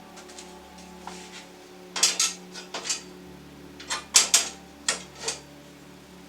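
Metal parts and hand tools clinking and clattering: a run of sharp clinks about two seconds in and another cluster about four to five seconds in, over a faint steady hum.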